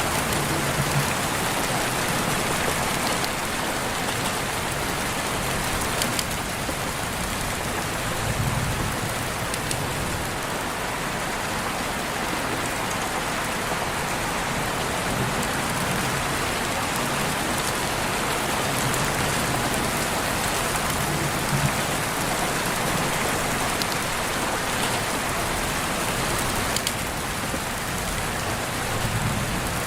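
Steady rain falling and pattering on surfaces, with scattered individual drops.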